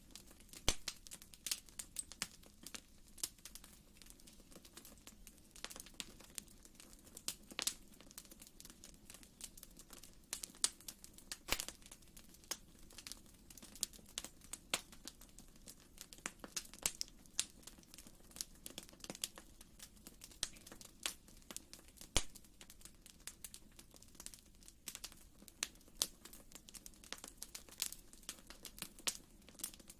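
Wood fire crackling in a fireplace: many irregular small pops and snaps over a soft steady hiss.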